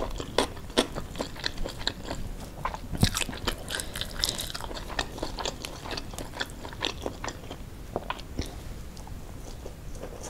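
A person chewing with the mouth close to the microphone, irregular crisp crunches and wet smacks from a mouthful of rice with fried-anchovy and shredded-chicken sambal.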